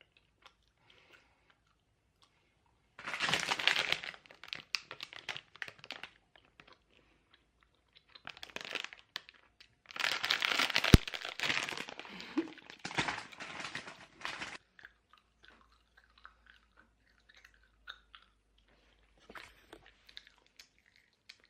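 A person eating close to the microphone: loud crunching and crinkling a few seconds in and again around the middle, with quieter chewing sounds in between.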